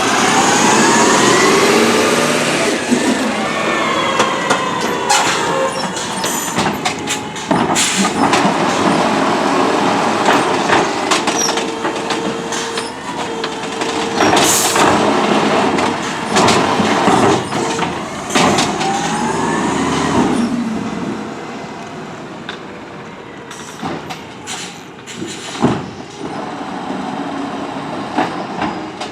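CNG Autocar ACX automated side-loader garbage truck at work: the engine revs up and down to drive the hydraulic arm, with a rising and falling whine, metallic clanks and bangs, and a burst of air hiss about halfway through. It settles to a quieter run for the last several seconds.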